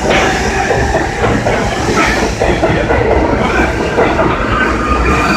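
New York City Subway R62A train departing, its wheels and cars running steadily along the track.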